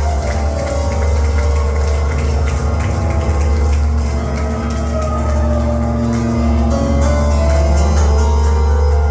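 Rock band playing live at full volume, with sustained notes over a heavy, booming bass that dominates the sound.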